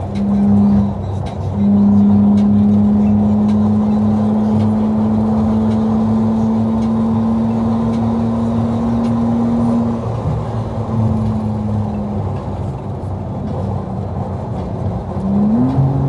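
Infiniti G35's V6 engine and loud exhaust under way, holding a steady drone whose pitch creeps slowly upward, dropping away about ten seconds in, then revving up sharply near the end.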